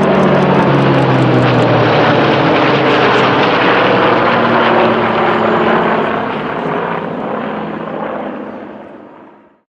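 Piston-engined propeller aircraft flying past, a loud steady engine drone that fades away over the last few seconds and cuts off just before the end.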